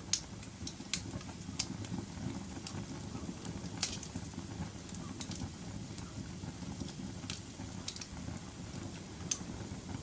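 Wood fire burning in a fireplace: a steady low rush of flames with scattered sharp crackles and pops, the loudest just after the start, about four seconds in, and near the end.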